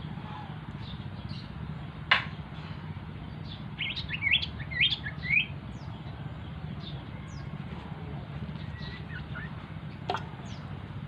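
A small sirtu (cito) bird chirping: short high calls scattered throughout, with a quick run of several rising chirps about four seconds in. A sharp click comes about two seconds in and again near the end, over a steady low hum.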